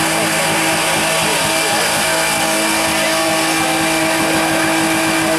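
Drift cars' engines and tyres making a loud, continuous din, with steady tones running through it.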